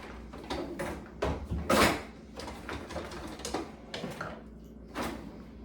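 Light kitchen handling noise: a handful of short knocks and scrapes of utensils and containers being moved about, the loudest just under two seconds in.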